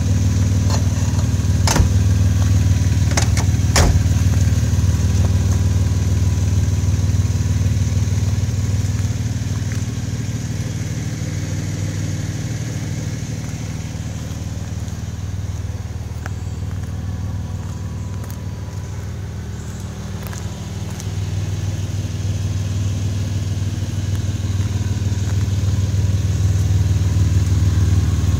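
Water-cooled Subaru EZ30D flat-six, swapped into a 1972 Porsche 914, idling steadily. It drops somewhat in level for a while in the middle, then comes back up. A few sharp clicks sound in the first few seconds.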